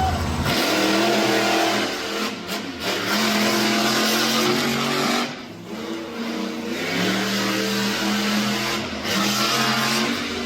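Monster truck engine revving hard, its pitch rising and falling as the throttle is worked, easing off briefly about five and a half seconds in and again near nine seconds.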